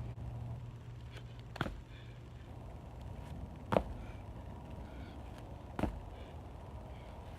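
Four sharp thumps at an even pace, about two seconds apart, the second the loudest: the repeated impacts of a leg exercise being done.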